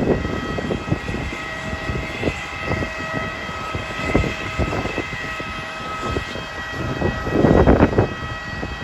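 Steady high turbine whine of a jet airliner, with strong wind buffeting the microphone in irregular low gusts and a loud gust near the end.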